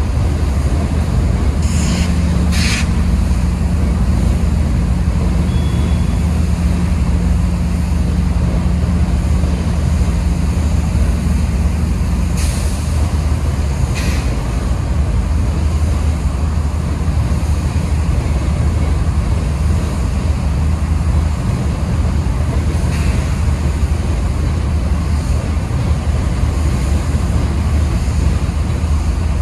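Freight train of hopper cars rolling past: a steady low rumble of wheels on rail, with a few sharp clanks scattered through. A low steady hum runs underneath and stops about twelve seconds in.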